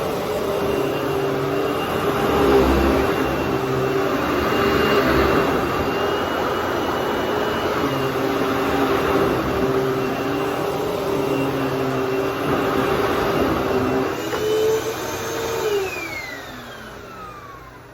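Hoover WindTunnel bagless twin chamber upright vacuum running loud and steady, a motor hum over a rush of air. Near the end it is switched off and the motor winds down, its whine falling in pitch.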